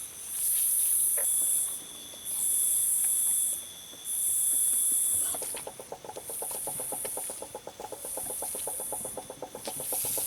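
Night swamp insect chorus: loud, high buzzing pulses about a second long, repeating with short gaps, over steady high trilling. From about halfway, a fast low pulsing trill of a frog joins in.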